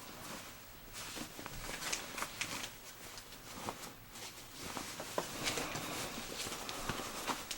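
Cargo pants being handled and turned over: rustling of the fabric with scattered small clicks and taps.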